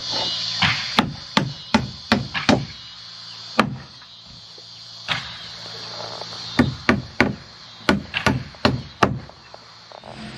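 Hammer driving nails into old barn wood, in quick runs of sharp strikes with a few single blows between. Crickets chirp steadily underneath.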